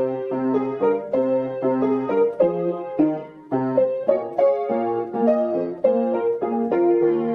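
Background piano music: chords and melody notes struck at a steady, moderate pace, each one ringing and fading before the next.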